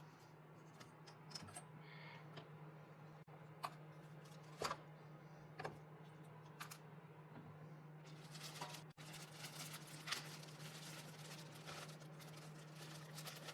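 Faint scattered clicks and taps, then denser scraping and rustling from about eight seconds in, over a steady low hum: handling and working on parts during a car coolant hose repair.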